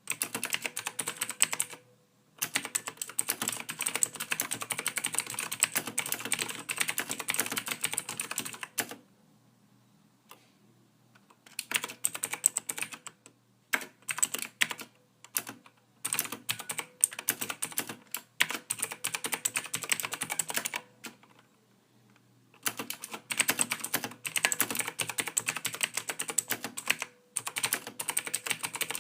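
Typing on a computer keyboard: rapid runs of key clicks, broken every few seconds by pauses of one to three seconds.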